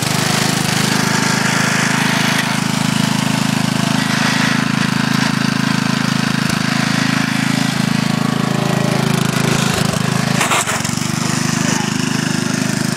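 The 8 hp Briggs & Stratton single-cylinder engine of a 1959 Montgomery Ward lawn tractor running loud and steady, with a short knock about ten and a half seconds in.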